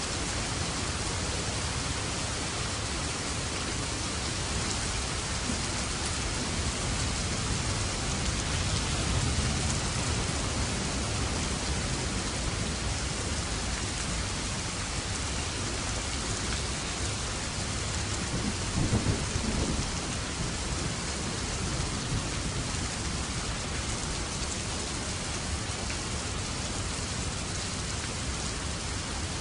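Steady, heavy rain falling, with rolling thunder underneath. One low rumble swells about a third of the way in, and a louder thunder peal comes about two-thirds of the way in.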